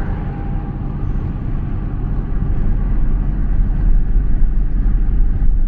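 Pickup truck driving on the road: a steady, loud, low rumble of engine and road noise.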